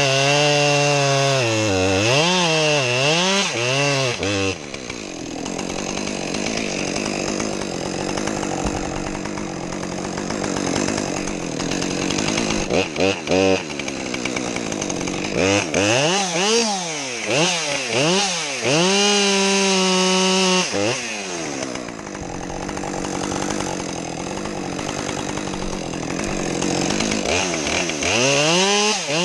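A modified two-stroke chainsaw revving up and down in quick blips, then running steadily under load as it cuts into wood. It revs freely again midway and near the end between the cuts.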